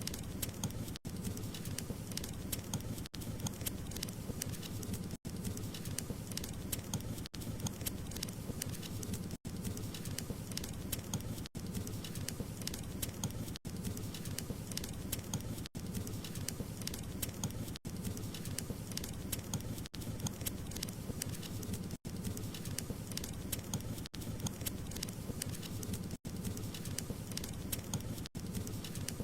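Wood fire crackling steadily, many sharp pops and snaps over a low rumble of the flames, with very brief dropouts about every two seconds.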